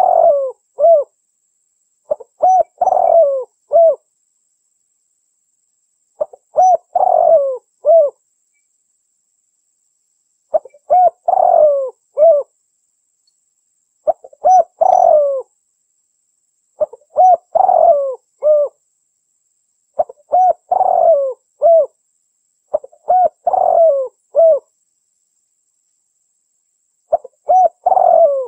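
Female spotted dove (derkuku) cooing: the same phrase of a few short coos around a longer, louder middle note, repeated about every three to four seconds, with silence between phrases.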